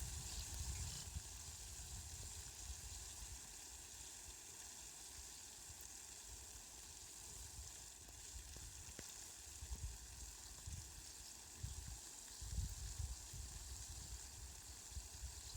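Steady, faint hiss of falling rain, with soft low rumbles swelling and fading now and then in the second half.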